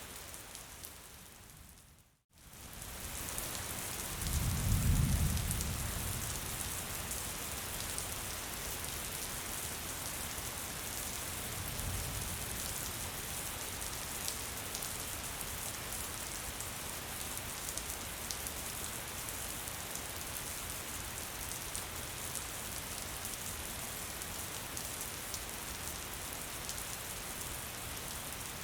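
Steady gentle rain falling, an even hiss of drops. About two seconds in, the rain fades to a moment of silence and comes straight back. A low rumble swells briefly around five seconds in, with a fainter one near twelve seconds.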